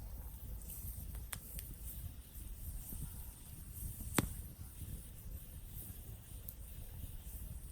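Campfire crackling: a few sparse, sharp pops from the burning wood, the loudest about four seconds in, over a low steady rumble.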